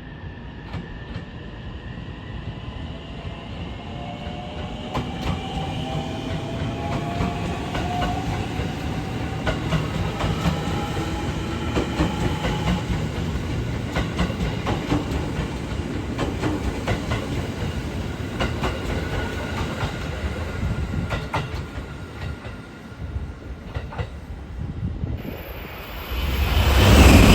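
Electric train pulling away, its motors giving a whine that rises in pitch as it accelerates, with wheels clicking over rail joints. About 26 seconds in, a much louder rushing train noise sets in abruptly.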